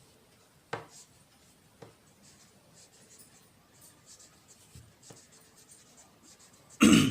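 Pen scratching on paper as a solution is written out, with a few light ticks of the pen and one short, louder knock or rustle near the end.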